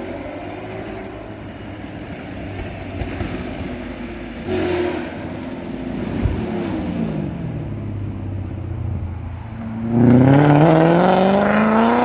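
BMW 540i E39's V8 running through an aftermarket MG Motorsport exhaust, blipped briefly, the revs falling back, then revved hard with a loud rising pitch near the end.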